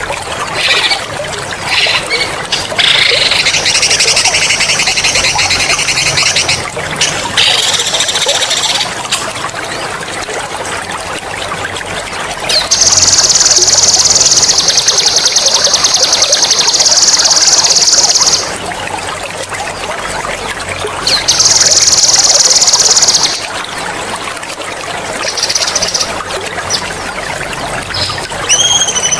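A songbird sings fast, sharp, high rolling trills in several long bursts, the longest and loudest lasting about six seconds midway. Running water trickles steadily underneath.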